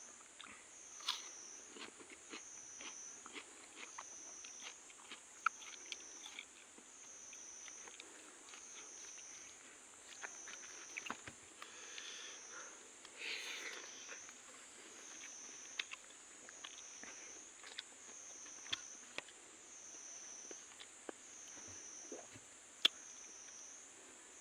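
Close-up eating sounds: chewing, with small clicks and taps, over a steady high-pitched insect chorus that swells and dips about every second and a half.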